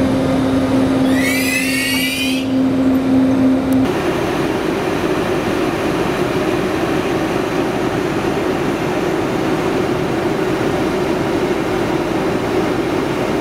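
Railway noise from ÖBB trains: a steady hum with a brief high squeal, then, after an abrupt change about four seconds in, a steady rumble of a train running.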